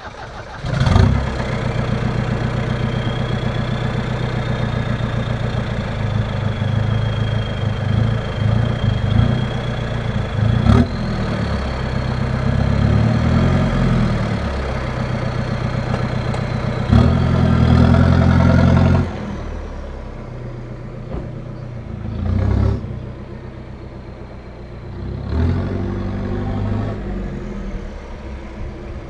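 Opel Frontera's 2.3-litre turbodiesel engine through a straight-piped exhaust with no catalytic converter, running loud at raised revs with a thin turbo whistle for about the first eighteen seconds. It then drops to a quieter idle, with two short throttle blips near the end.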